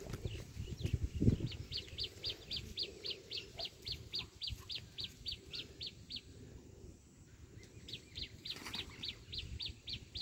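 A bird calling a fast, even series of short high chirps, about four a second, which breaks off for about two seconds and then starts again. Low thuds sound in the first second and a half.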